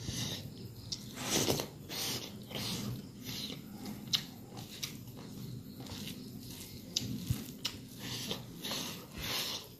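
A person chewing dry beef and rice, with short chewing sounds repeating every half second or so and a few sharp clicks.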